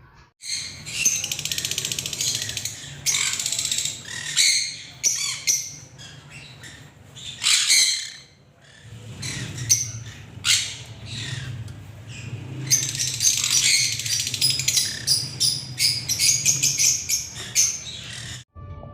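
Flock of lovebirds chattering and squawking in shrill, overlapping bursts, over a low steady hum.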